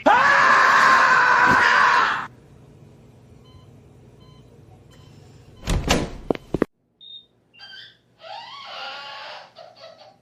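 A loud, held scream lasting about two seconds, then a few sharp knocks about six seconds in and short, quieter vocal sounds near the end.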